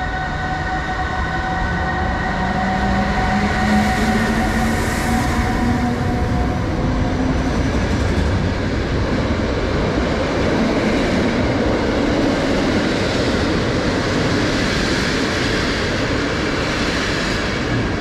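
Train passing at close range. Over the first half a few steady whining tones and a slowly rising drone are heard, then the even rolling noise of wheels on rails takes over.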